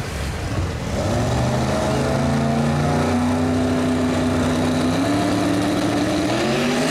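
A car engine running, its pitch rising about a second in, holding steady for a few seconds, then rising again near the end.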